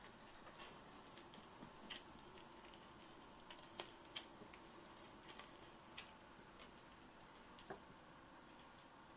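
Near silence with scattered, irregular light clicks and taps, the sharpest about two seconds in and a small cluster around four seconds.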